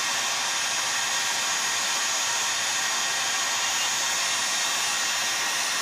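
Electric heat gun running steadily, a constant blowing hiss, heating an aluminium chainsaw crankcase half so it expands enough to slip over the crankshaft.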